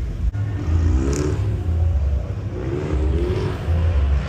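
A car engine revving twice over a loud low rumble, each rev rising and falling in pitch.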